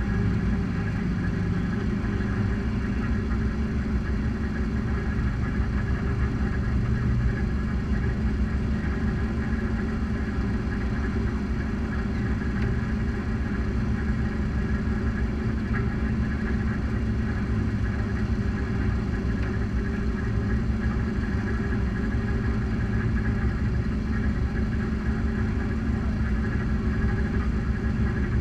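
Race car engines idling, a steady low rumble that holds the same pitch throughout with no revving.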